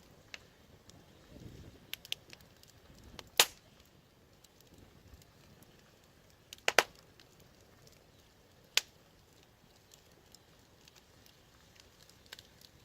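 Wood fire crackling: scattered sharp pops and snaps over a faint background. The loudest pop comes a little over three seconds in, a quick double pop near the middle, and another sharp snap shortly after.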